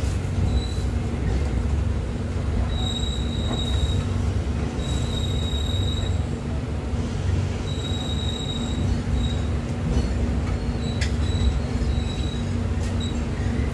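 Interior of a moving passenger train carriage: a steady low rumble with a constant hum, broken about five times by a high-pitched wheel squeal lasting up to a second or so each, as the train pulls out of the station, with a few light clicks.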